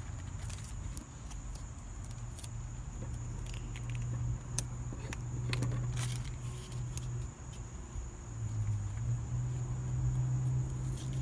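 Faint clicks and taps of paper stickers being peeled off their sheet and pressed onto a plastic toy fridge, over a low hum that comes and goes.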